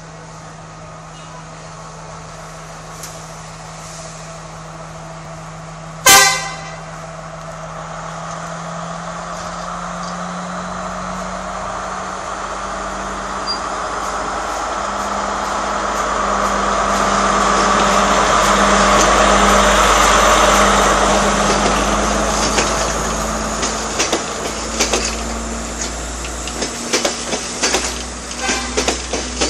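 Class S12 diesel multiple unit running, with one short horn blast about six seconds in. Its noise swells to a peak midway and then eases, and sharp clacks of wheels over rail joints come near the end.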